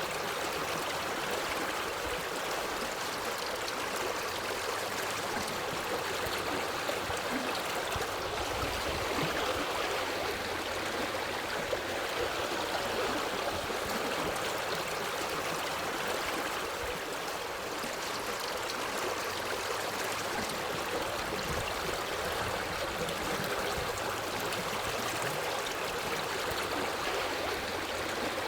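Forest stream flowing over rocks, a steady rushing and gurgling of water.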